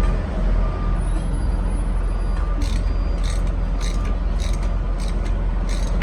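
Rebuilt Komatsu six-cylinder diesel engine running steadily with a dense, even low rumble. From about two and a half seconds in, a series of short, sharp hissing noises sound over it at irregular intervals.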